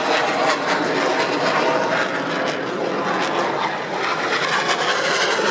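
Turbofan engines of Black Eagles KAI T-50B jets in flight during an aerial display, a steady unpitched jet noise that holds its level throughout.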